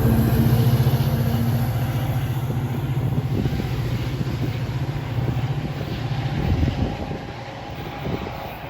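Metra diesel commuter train running past on the track, its low engine hum and rail rumble loud at first and fading steadily as it moves away; a higher steady tone drops out about two seconds in.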